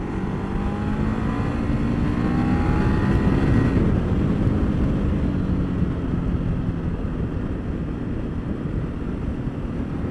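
Ducati Multistrada 1200's L-twin engine accelerating hard, its pitch rising and getting louder over the first four seconds, then easing off about four seconds in to a steadier run under wind rush.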